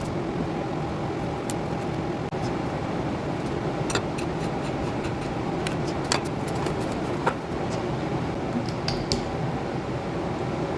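Steady mechanical hum, like a kitchen fan, with scattered light clicks and clinks of kitchen utensils and dishes during food preparation, the sharpest about four, six and nine seconds in.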